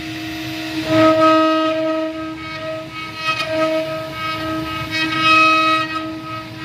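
Spindle of a mini stone CNC router running with a steady high-pitched whine. It grows louder twice, about a second in and again about five seconds in.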